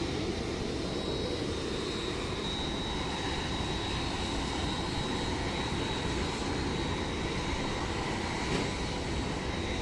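Jet aircraft engines running steadily: an even rush of noise with a thin, high whine held throughout.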